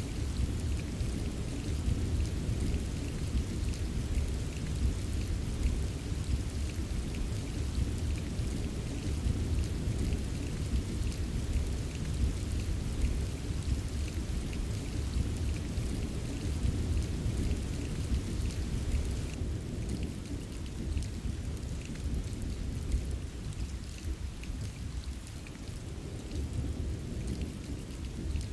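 Steady rain, with a continuous low rumble underneath and scattered ticks of drops.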